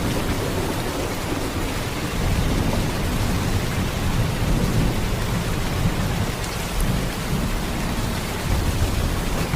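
Heavy rain pouring steadily: a dense, even hiss with a strong low-pitched weight underneath and no breaks.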